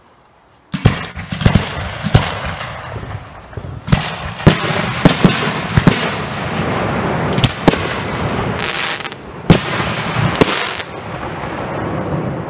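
Aerial fireworks bursting overhead: a rapid, irregular string of sharp bangs with a continuous crackling rumble between them. It starts suddenly about a second in and thins out near the end.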